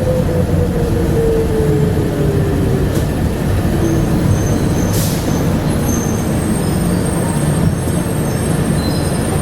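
Bombardier APM100 rubber-tyred people mover running, heard on board: a steady low rumble under a motor whine that falls in pitch over the first four seconds. A short hiss of air comes about five seconds in, and faint high squeaks follow near the end.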